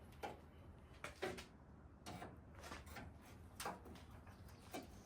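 Faint, scattered knocks and clinks of hand work on a pickup truck's front end: several short, sharp sounds about a second apart.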